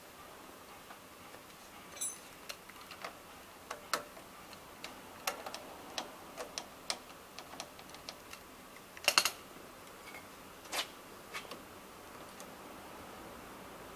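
Irregular clicks and light metallic knocks of hand tools at work as an air-conditioning compressor is being unbolted, with a louder cluster of knocks about nine seconds in.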